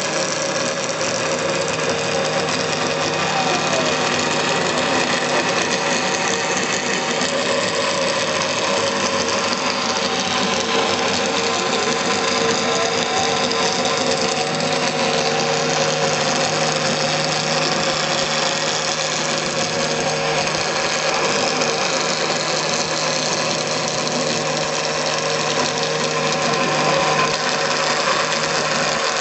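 CNC milling machine spindle running at 15,000 rpm with a 6 mm carbide end mill cutting plexiglass (acrylic): a steady whine with dense cutting noise and a few faint brief pitch glides from the machine's moves.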